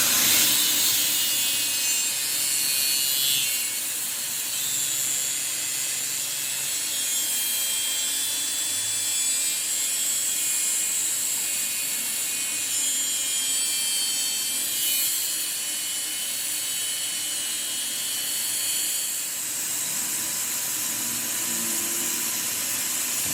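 A metalworking power tool running steadily on the gear work, giving a continuous high-pitched grinding noise with thin whining tones over it.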